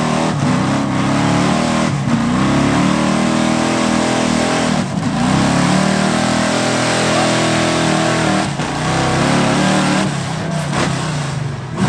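Gasoline pickup truck engine running hard at high revs while pulling a sled, its pitch climbing and dropping back several times.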